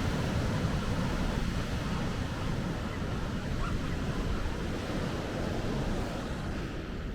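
Atlantic Ocean surf, a steady rush of waves.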